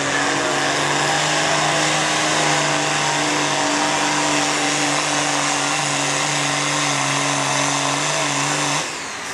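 Diesel pickup truck engine held at a steady high pitch under full throttle while pulling the weight sled. It lets off suddenly near the end.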